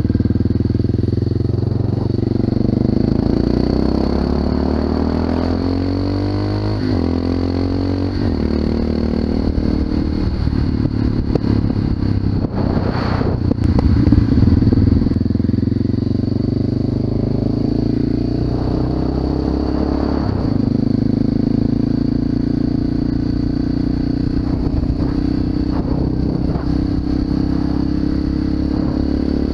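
Honda FMX 650's single-cylinder engine through an Arrow exhaust under way, the pitch climbing as it pulls through the gears and dropping at each shift, then running more evenly. About thirteen seconds in, a brief louder rushing noise rises over the engine.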